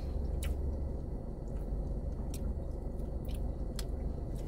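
Close-mic chewing of a mouthful of fried fish sandwich, with a few soft wet mouth clicks, over a steady low hum.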